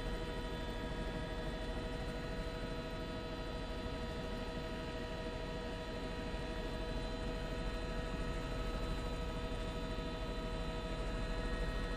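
Steady helicopter cabin noise heard through the crew's microphone: an even drone with a low hum and several constant whining tones over a hiss.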